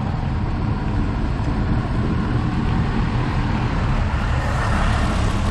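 Steady low rumble of road and traffic noise heard from a moving bicycle.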